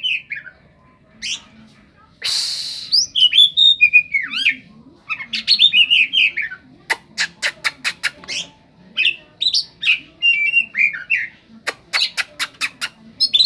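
Oriental magpie-robin singing a varied song of whistled glides and chirps, with a harsh rasping note about two seconds in and quick runs of sharp clicking notes in the second half. The song is full of imitated notes in the style of a long-tailed shrike.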